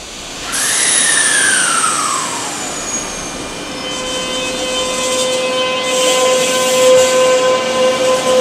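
Electric train sounds: a whine that starts suddenly and falls steadily in pitch over about two seconds as a train passes, then a steady whine that grows louder toward the end.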